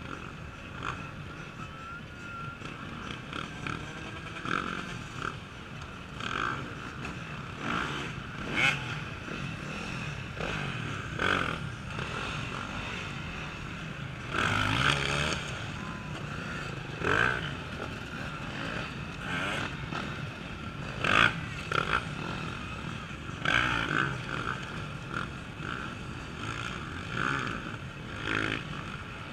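Off-road racing motorcycles revving in short throttle bursts, one after another, over a steady drone of other bikes on the course, as they ride over the logs.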